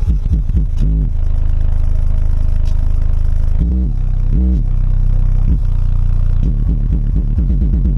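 Bass-heavy test music played loud through Sundown Audio X6.5 subwoofers: a deep steady bass with bass notes that sweep down and back up a few times, then a run of quick up-and-down bass warbles in the second half.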